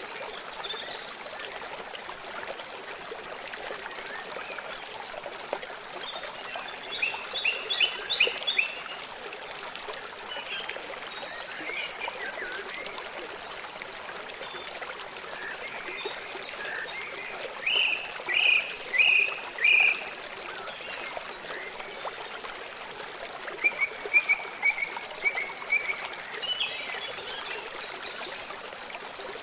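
A stream running steadily, with birds calling over it in short bursts of rapid chirps and trills, three times louder.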